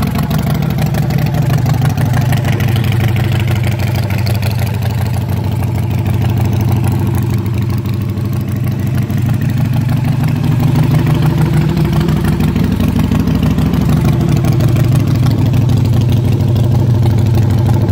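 Harley-Davidson Night Train V-twin motorcycle engine idling steadily as it warms up after a cold start from sitting for over a month, getting a little louder about halfway through.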